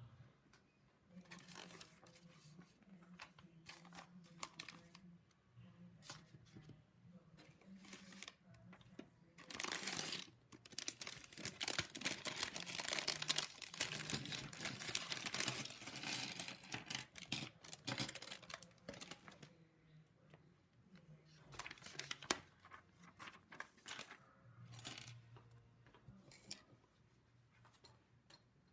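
Hands handling LEGO pieces: small plastic clicks and the rustle and crinkle of plastic, densest for several seconds in the middle.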